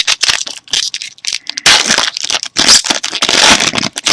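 The wrapper of a 2013 Bowman Chrome football card pack being torn open and crinkled by hand. It gives loud, irregular crackling, heaviest about two seconds in and again near the end.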